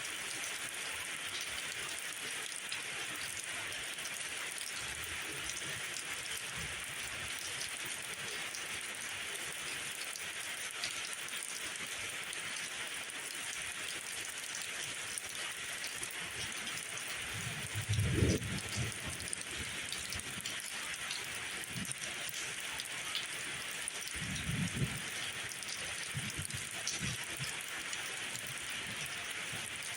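Steady rain falling as an even hiss, with a few short, soft low thuds: the loudest just past the middle, and a few more several seconds later.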